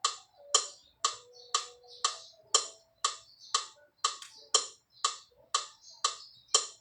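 Metronome ticking at a steady pace of about two clicks a second, giving the count for a vocal warm-up exercise.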